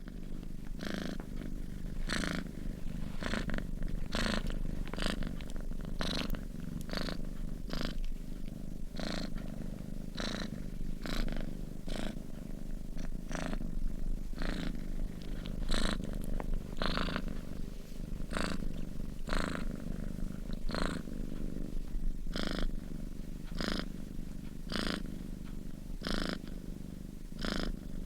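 Domestic cat purring steadily in its sleep: a continuous low rumble with a breathy rasp about once a second as it breathes in and out.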